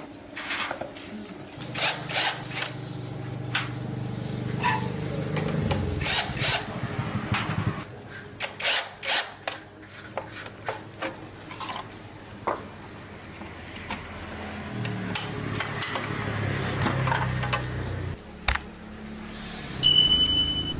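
Hand work with tools on a motorcycle wheel and tyre: repeated knocks, clicks and rubbing, with a low hum that comes and goes twice and a short high beep near the end.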